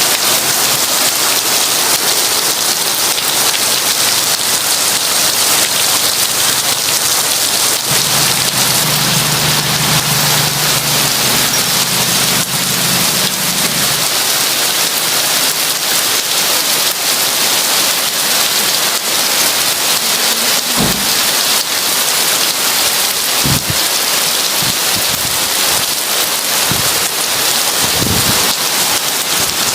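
Heavy rain falling steadily. A low rumble of thunder comes about a third of the way in, and a few short low thuds follow near the end.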